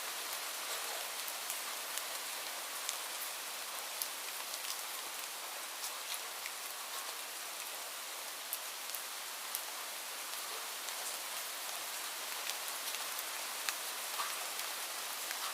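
Steady rainfall: an even hiss of rain with scattered louder drops striking close by.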